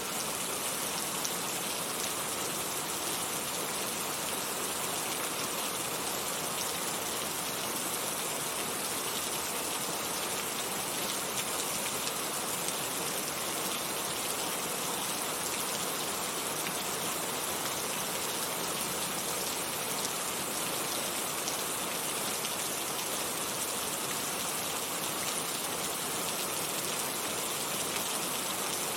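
Heavy rain falling steadily, a dense even hiss with fine pattering of drops on surfaces.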